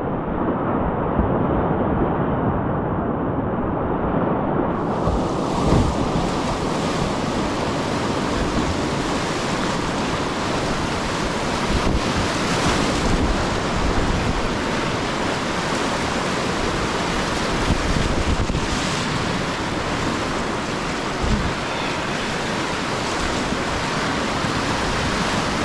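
Steady rush of river whitewater, with some wind on the microphone. For the first few seconds it is muffled, its high end missing, then it opens up to a full hiss about five seconds in.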